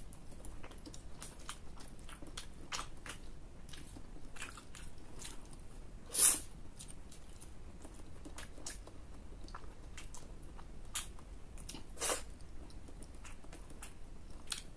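A person chewing and biting food, a steady run of small crunches and mouth clicks, with a louder sharp crunch about six seconds in and another about twelve seconds in.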